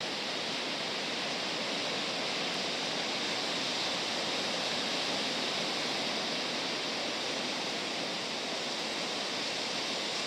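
Steady hiss of ocean surf washing on a beach, an even wash of sound with no separate breaks standing out.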